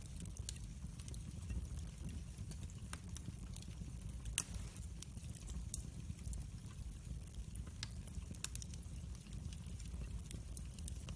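Wood fire crackling: scattered sharp pops and snaps over a steady low rumble, with one louder pop a little after four seconds in.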